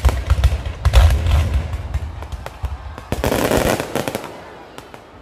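Low-altitude fireworks going off: a rapid run of sharp bangs and cracks, with the heaviest deep booms in the first second or so and a dense burst of crackle a little past three seconds.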